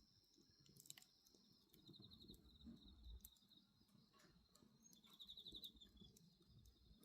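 Faint wood bonfire burning with occasional soft crackles and pops, under a steady high drone of crickets that break into short pulsed trills twice.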